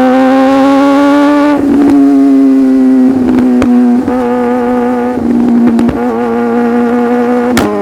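Sport motorcycle engine running at a steady high speed under way, its note climbing slightly for the first second and a half and then holding fairly level. Several short sharp clicks and brief breaks in the note are heard, one of them near the end.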